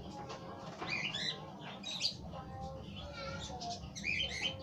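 Small birds chirping in short, high bursts, three times, over a steady low hum.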